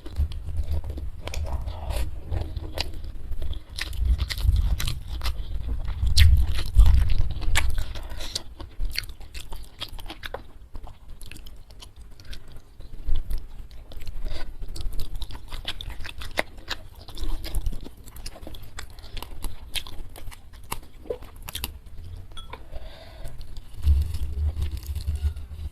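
Close-miked chewing and biting of food, with a run of short crisp crunches over the low thud of the jaw. It is louder for a few seconds after the start and again near the end.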